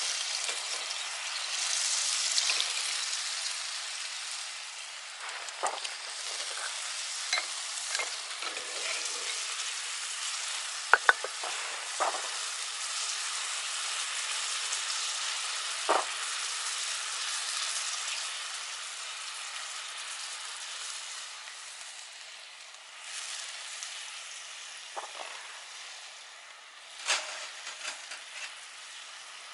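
Food sizzling in a hot pan, a steady frying hiss that slowly dies down, with a few sharp clicks and knocks of a utensil against the pan.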